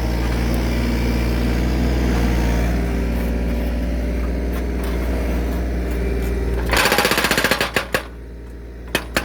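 Kubota U35S mini excavator's diesel engine running steadily, then about two-thirds of the way through its hydraulic breaker starts hammering rapidly into a log to split it, stops for about a second, and starts again near the end.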